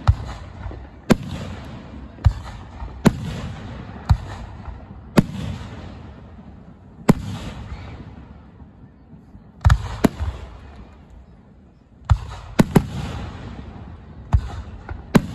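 Aerial fireworks shells bursting overhead, each sharp bang trailing off in a rolling echo. The bangs come about once a second at first, thin out in the middle, then arrive in quick pairs and threes near the end.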